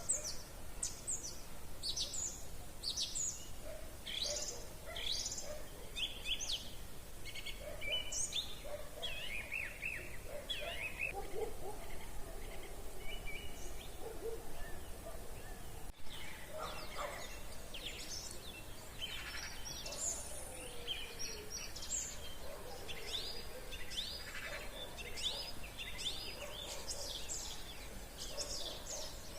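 Several songbirds singing at once in the spring evening, with many short chirps and trills overlapping throughout. Lower calls sound underneath at times.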